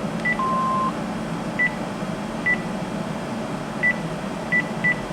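Cordless phone key-press beeps: short high beeps about six times at uneven intervals as buttons are pressed, with one longer, lower beep near the start.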